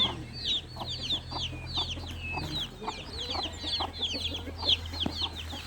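Chickens calling: a continuous run of short, high, falling peeps, several a second, with a few lower clucks mixed in. A steady low hum runs underneath.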